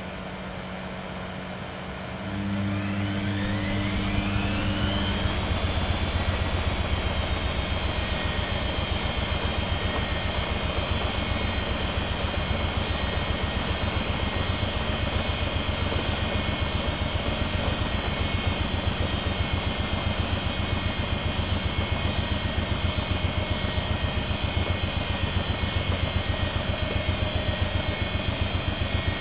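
Privileg 370 S washing machine speeding up into a spin: about two seconds in the motor starts and its whine rises in pitch for a few seconds, then holds at a steady high spin with a fast pulsing rumble from the drum.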